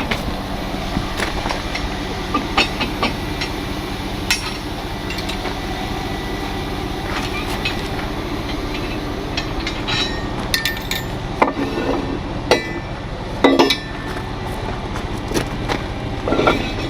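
Steady running of a truck engine with repeated sharp metal clanks and clinks of heavy tow gear being handled and fitted, several coming close together in the second half.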